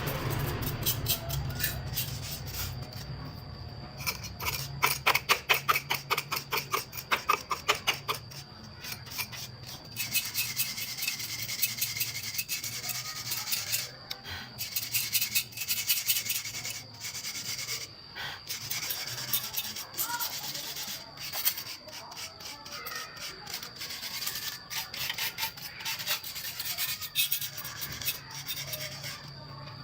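Rapid back-and-forth rasping strokes, like hand filing or scrubbing, coming in runs with short pauses. They are fastest and loudest between about 4 and 8 seconds in, at roughly five strokes a second.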